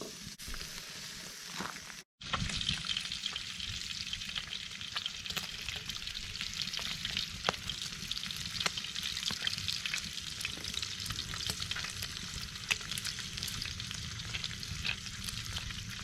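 Bacon frying in a skillet over a campfire: a steady, dense sizzle full of small spitting pops. It comes in after a brief cut about two seconds in, and is quieter before that.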